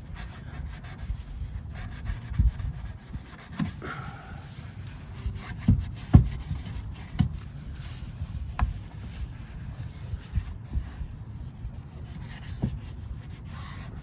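Cloth rag rubbing chrome polish over a chrome exhaust tip by hand: an irregular scrubbing rub with occasional light knocks.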